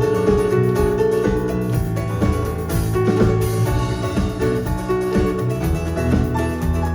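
Live band playing an instrumental tune: drum kit keeping a steady beat under bass, guitar and piano.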